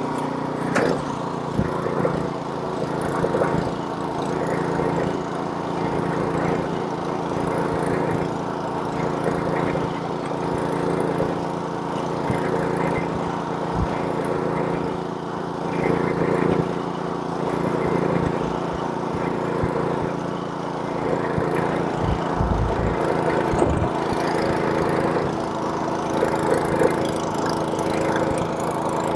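Small-engine snowblower running steadily while clearing snow, its engine note wavering slightly as the load changes.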